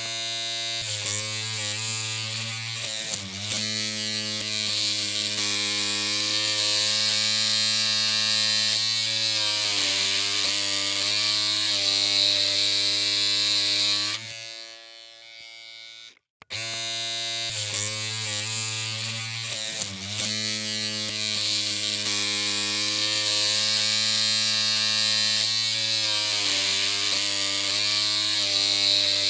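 Electric hair clippers running with a steady buzzing hum, with a brief dip in pitch twice. The hum cuts off about halfway through and starts up again about two seconds later.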